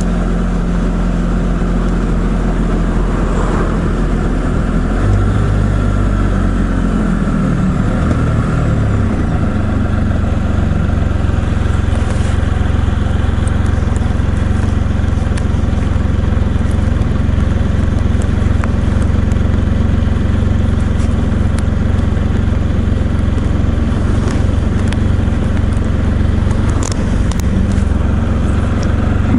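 Can-Am Spyder three-wheeled motorcycle's engine running steadily under way, with road noise. The engine note shifts about five seconds in and settles again by about nine seconds.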